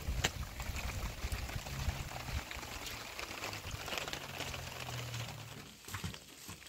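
Heavy rain falling steadily, with many small drop taps and a low steady hum underneath; it eases slightly near the end.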